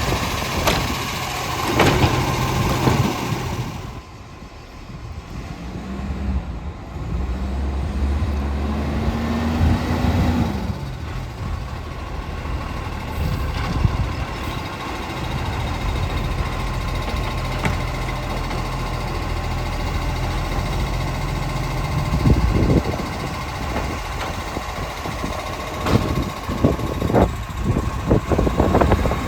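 Garbage truck engine running, revving up with a rising pitch a few seconds in and settling back, then several sharp clunks near the end.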